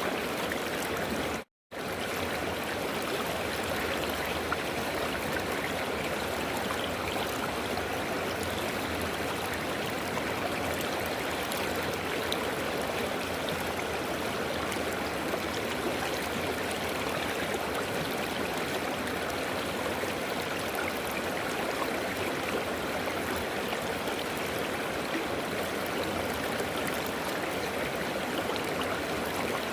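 Steady rush of flowing river water, with a brief cut to silence about one and a half seconds in.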